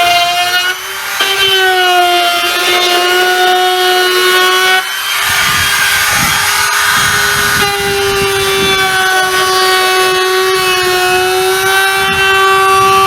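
Electric wood router running at high speed, a steady high whine that dips briefly twice. From about five seconds in, for a couple of seconds, a rougher rasping cutting noise rises over it as the bit works along a board's edge.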